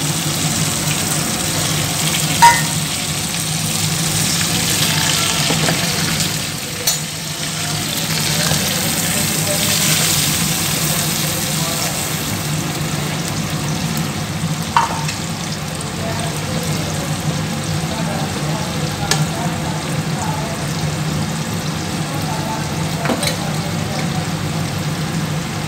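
Gola kababs and sliced onions sizzling in hot oil in a shallow pan, a steady frying hiss over a low hum. A few sharp clicks are heard, the loudest about two seconds in.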